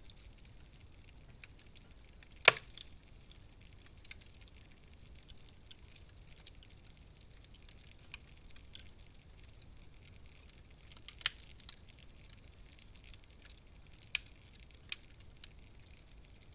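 Wood fire crackling: scattered sharp pops and snaps over a faint steady hiss, the loudest pop about two and a half seconds in and a few more near the end.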